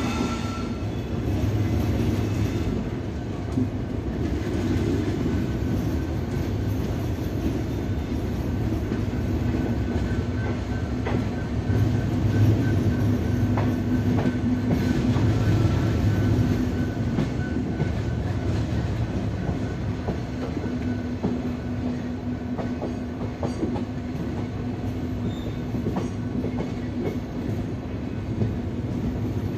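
Passenger coach rolling slowly over the tracks, heard from aboard: a steady rumble of wheels on rail with scattered clicks and clacks over rail joints.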